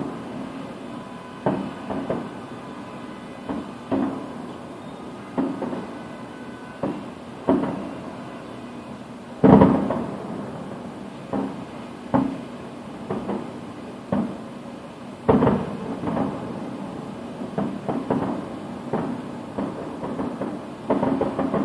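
Aerial firework shells bursting in a fireworks show, a run of booms about one a second with echoes trailing after each, the loudest about nine and a half seconds in and the bursts crowding together near the end.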